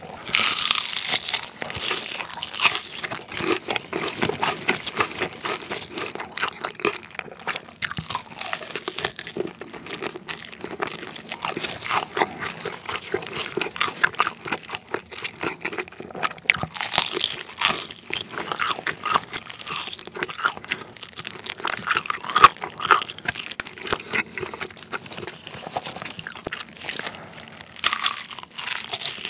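Crispy fried chicken being bitten and chewed close to the microphone: a dense, irregular run of crackly crunches with chewing, and louder bites now and then.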